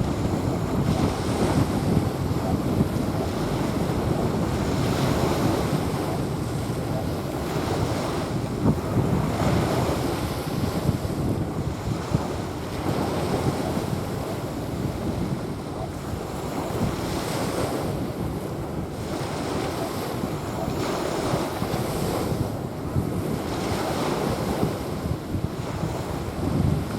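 Small waves washing onto a sandy beach, swelling and easing every few seconds, with wind buffeting the microphone.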